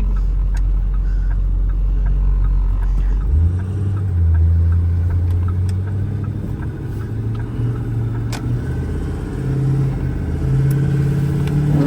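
2008 Ford F550's Power Stroke turbo diesel V8 heard from the cab, idling low and then pulling away about three seconds in, its pitch rising and stepping as the automatic transmission shifts. The engine is cold, not yet at operating temperature.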